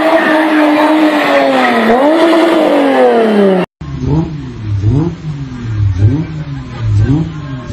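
BMW E30 engines revving hard during spinning: first a sustained high-rev note that sags and climbs back, then after an abrupt break about 3.7 s in, another E30 revved in quick repeated blips, about two a second.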